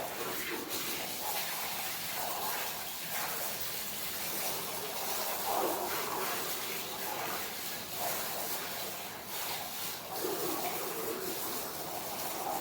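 Streams of milk hissing into a pail as a buffalo is milked by hand.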